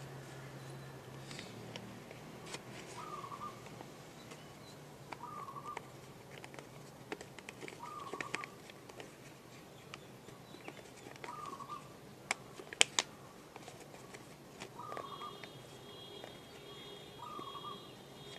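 Paper being handled and creased by hand: scattered crinkles and sharp taps, the loudest a pair of clicks about two-thirds of the way through. A bird calls in the background, one short call every two to three seconds.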